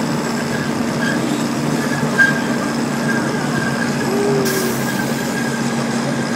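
Zoo ride-on train running steadily, a continuous noise with a steady hum in it and a single short knock about two seconds in.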